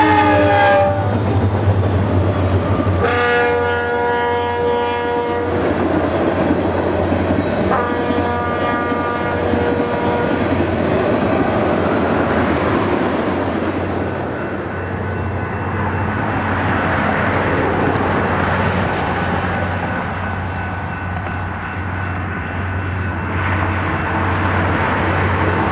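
A BNSF freight train's multi-chime locomotive air horn sounds three blasts, the first cutting off about a second in, followed by the steady rumble of the EMD diesel locomotives and cars rolling past.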